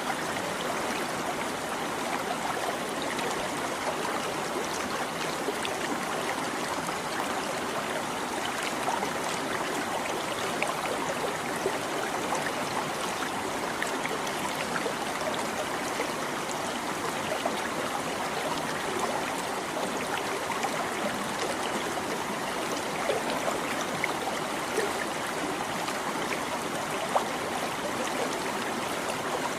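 A small stream babbling and trickling over rocks: a steady, even flow of water with small splashes scattered through it.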